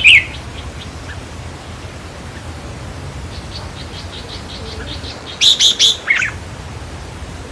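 Red-whiskered bulbul calling: a run of faint, quick chips past the middle, then a loud burst of short notes ending in a falling phrase a little after five seconds in.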